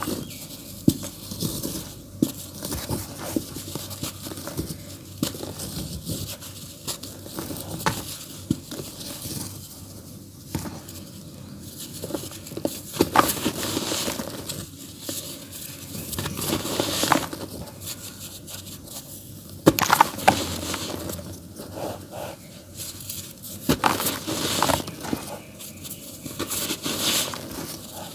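Dry earthy dirt crumbling in a tub: an irregular run of gritty crunches and crackles, with several louder crunches along the way.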